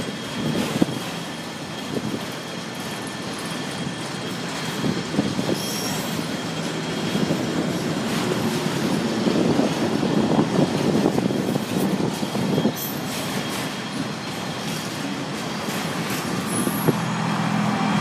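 Enclosed autorack freight cars rolling past, wheels rumbling and clacking on the rails, with a thin, steady, high wheel squeal over the top.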